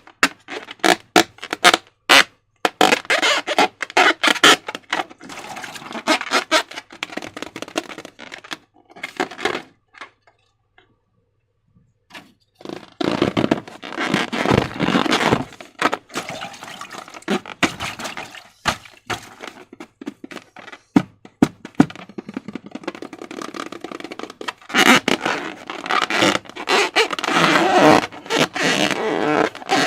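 Slime being squished and stretched by hand, giving dense sticky crackles, clicks and squelches, with a pause of near silence about ten seconds in.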